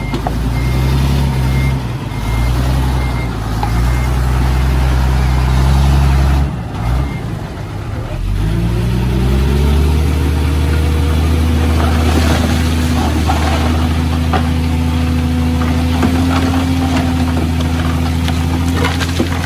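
Heavy diesel machine engine running, with a reversing alarm beeping steadily for the first several seconds. About eight seconds in the engine revs up and holds at the higher speed, with scattered knocks and clanks.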